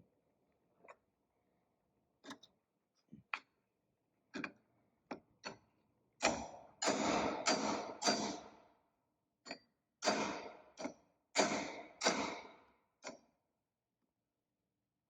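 Hammer blows on a driver seating a Torrington needle thrust bearing into the powershift front cover: a few light taps at first, then from about six seconds in a run of heavier blows, each with a short ring.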